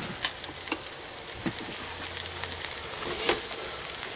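Tuna and egg frying in hot oil in a skillet: a steady sizzle with scattered crackles.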